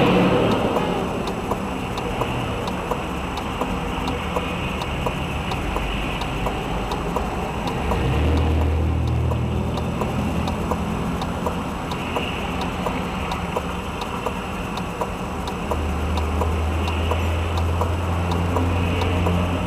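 A car's engine and road noise from inside the car, a low drone that swells twice. A steady ticking runs over it at about two to three ticks a second.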